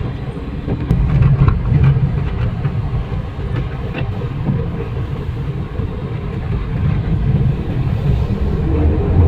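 Third-generation Toyota Vios being driven, its engine and road noise a steady low rumble that swells and eases, on a road test of a car that starts hard and hesitates and jerks under acceleration.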